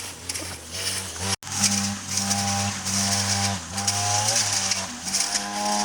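Small engine running at high revs, its pitch dipping briefly now and then, with a hiss over it, typical of a grass-cutting brush cutter at work. The sound cuts out abruptly for an instant about a second and a half in.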